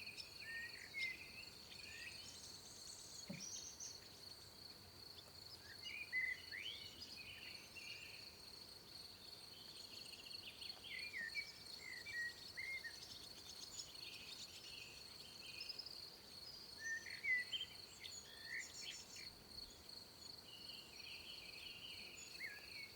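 Steady, unbroken high-pitched insect trill, cricket-like, with birds calling over it in short chirps and quick whistled notes that come and go throughout.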